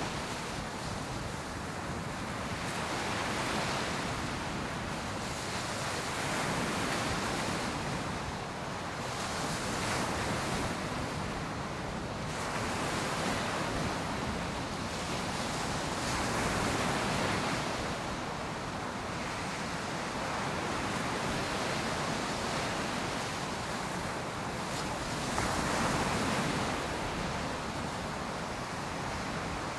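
Ocean surf breaking on a beach: a continuous wash of waves that swells and falls back every few seconds, with the loudest swell near the end, and some wind on the microphone.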